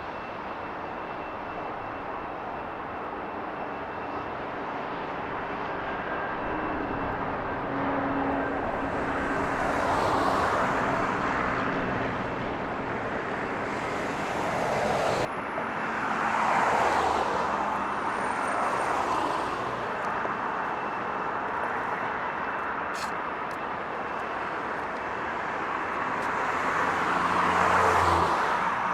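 Outdoor road traffic: a steady hum with vehicles passing one after another, each swelling up and fading away.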